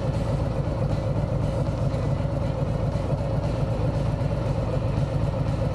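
Harley-Davidson Sport Glide's V-twin engine running steadily as the motorcycle cruises down the road.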